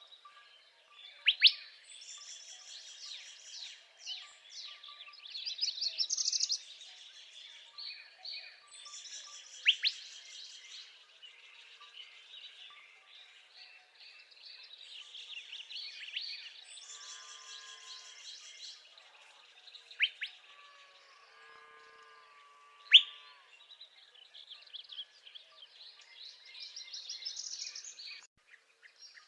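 Northern parula singing rising buzzy trills, with several short, very loud notes standing out, over a background chorus of other songbirds.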